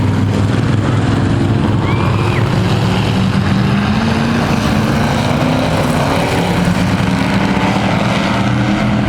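Several dirt-track race trucks' engines running together at a steady, moderate pace, their overlapping tones drifting slowly up and down: the field circling at pace speed.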